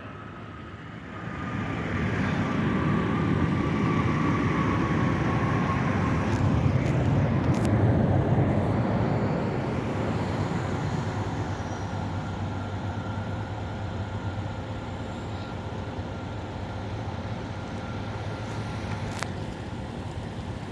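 Jet airliner engines passing by: a broad rush that swells for several seconds and then eases to a steady drone, with a faint whine falling in pitch as it goes by.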